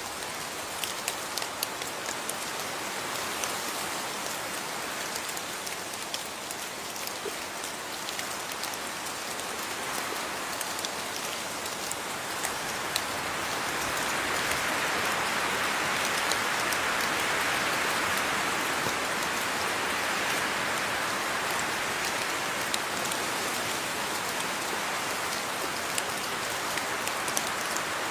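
Steady rain falling, with many separate drops ticking on a surface through the hiss; the rain grows heavier about halfway through.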